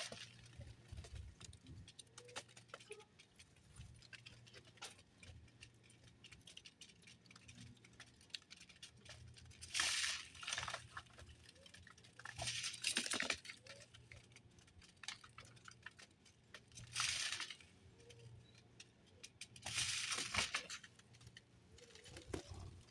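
Birds at a feeding spot: several short rustling, fluttering bursts a few seconds apart, with a few faint short bird calls in between.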